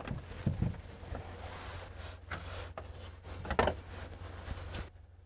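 Quiet cooking sounds: a few soft knocks and scrapes of a utensil against a pan, over a steady low hum and hiss that cut off abruptly near the end.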